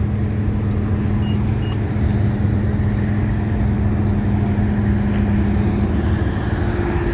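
A car engine idling close by: a steady low drone.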